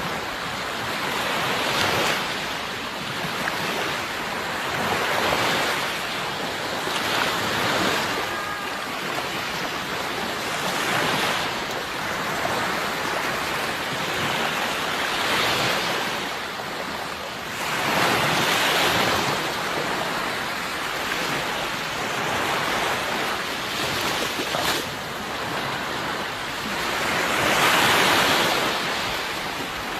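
Sea waves breaking and washing in, a steady rush of surf that swells and falls every few seconds. The biggest surges come about two-thirds of the way through and near the end.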